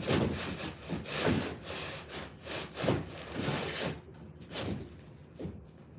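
Wood being cut with a handsaw: rhythmic back-and-forth strokes, about two a second, easing off about four seconds in with two last strokes.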